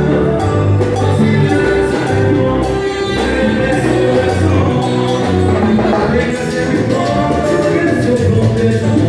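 Music: a Latin dance orchestra playing, with a steady bass line and rhythmic percussion under sustained melody instruments.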